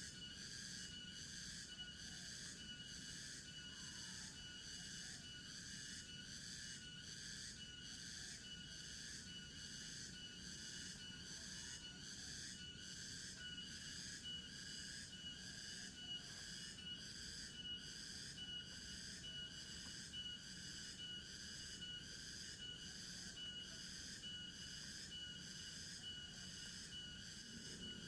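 A forest night chorus of insects, pulsing evenly at a bit more than one pulse a second over a steady high tone. A few faint whistled calls come through underneath.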